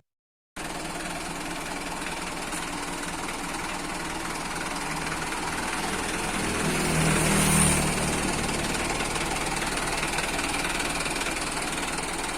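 Mitsubishi Fuso Canter truck's diesel engine running, growing louder about seven seconds in and then easing off again.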